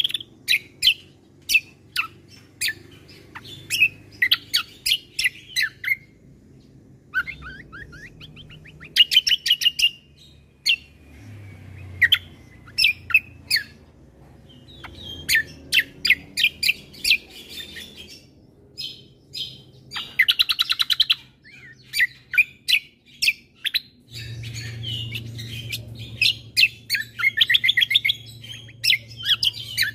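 Kecial kombo (cucak kombo) songbird singing: repeated sharp chirps and fast trilled phrases in bursts with short pauses, over a faint low hum.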